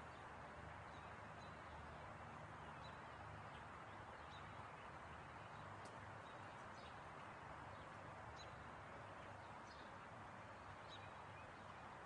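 Faint outdoor ambience: a steady hiss and low hum, with short, high bird chirps scattered through it.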